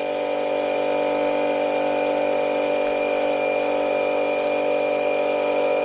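Small electric pump running steadily with an even hum, draining the water heater tank through a hose.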